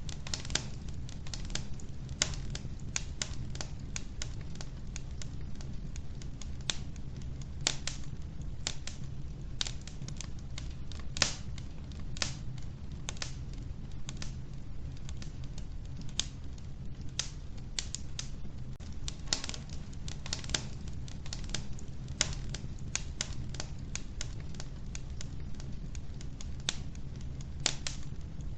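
Wood fire burning in an old wood-burning stove: irregular sharp crackles and pops from the burning logs over a low steady rumble of the flames.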